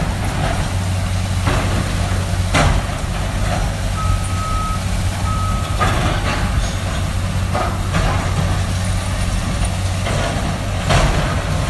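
Heavy diesel demolition machinery running steadily, with a reversing alarm sounding twice a little after the middle and several sharp knocks and crashes of debris scattered throughout.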